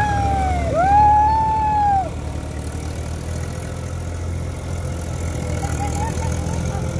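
Tractor engine running steadily at low revs. Over it, in the first two seconds, comes a loud high-pitched call: a short falling note, then a longer note that rises, holds and falls away. Faint short chirps follow near the end.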